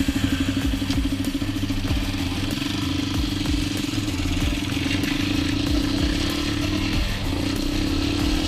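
Dirt bike engine running at a steady speed, with a brief dip about seven seconds in.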